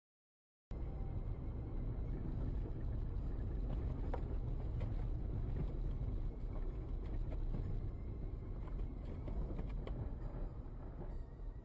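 Steady low road and engine rumble of a moving car, recorded from inside the vehicle, with a few faint clicks and knocks; it starts abruptly about a second in.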